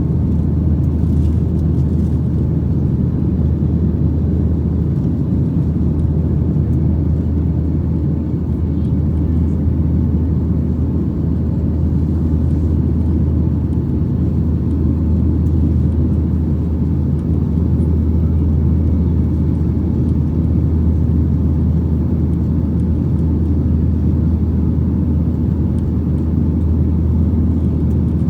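Boeing 737-800 cabin noise heard from inside: a steady low rumble of the CFM56-7B jet engines and airflow, holding even throughout.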